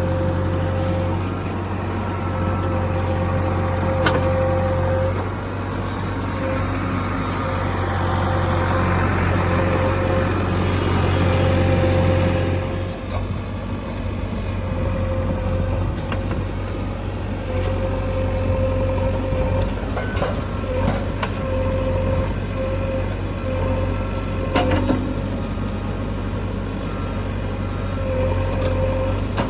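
Heavy diesel engines of a JCB backhoe loader and a tractor running steadily at work, with a few sharp metallic clanks about twenty and twenty-five seconds in.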